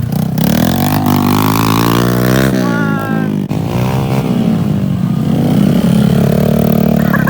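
Dirt bike engine revving under throttle, its pitch climbing for a couple of seconds, dropping, then rising and falling again as the throttle is opened and closed.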